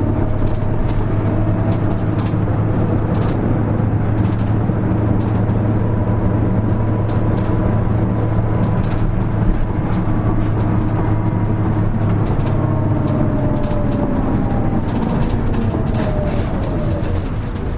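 Interior running noise of a Hino Rainbow HR (KL-HR1JNEE) diesel city bus: a steady engine drone with light rattles from the cabin. About thirteen seconds in the engine note changes and falls away as the bus eases off.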